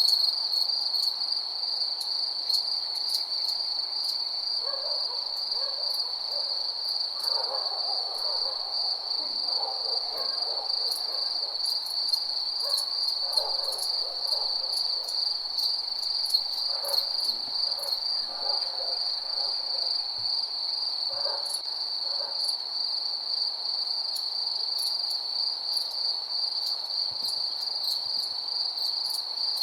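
Night chorus of crickets trilling steadily at one high, even pitch, with scattered sharp high ticks. Broken lower calls come and go between about five and twenty-two seconds in.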